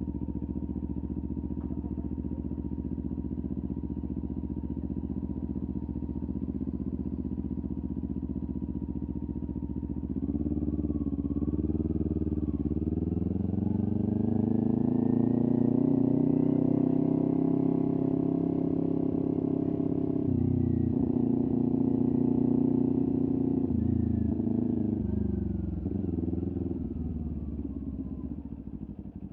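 Kawasaki Ninja 400's parallel-twin engine through a LeoVince aftermarket exhaust, running at a steady low speed for about ten seconds. The revs then climb and hold, dip briefly twice, and fall away near the end as the bike slows.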